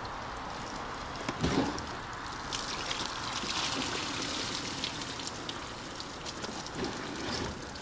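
Water trickling and splashing steadily, with a soft knock about a second and a half in.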